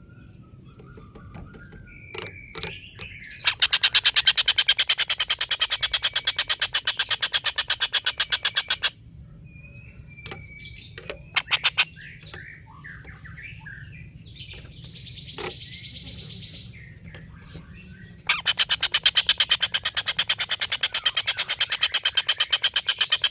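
Tengkek buto kingfisher giving its long 'ngekek' call: a rapid, evenly repeated series of loud harsh notes held for several seconds. A second long bout starts about three-quarters of the way in, and short single calls fall between the two.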